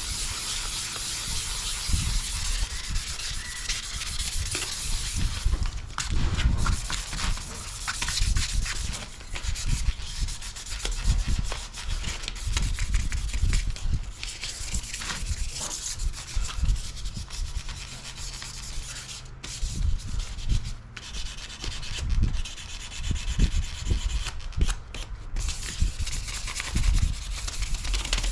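Fine 1500-grit sandpaper rubbed back and forth by hand over a jet ski's metal exhaust, a continuous rough scratching that swells and fades with the strokes, working back surface corrosion and discoloration.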